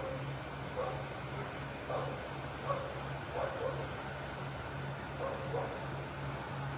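A dog barking repeatedly, about one bark a second, over a steady low hum.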